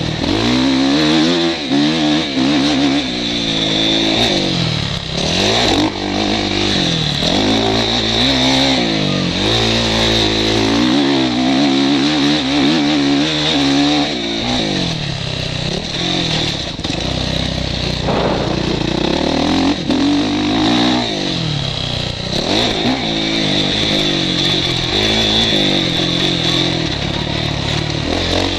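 Motocross bike engine revving hard and easing off again and again, its pitch rising and falling over and over, heard from a helmet-mounted camera.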